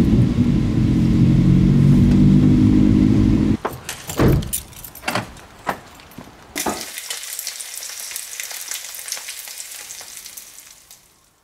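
Car engine running steadily, heard from inside the cabin, for the first three and a half seconds. Then a few knocks and bumps, and from about two-thirds of the way in, food sizzling, which fades out near the end.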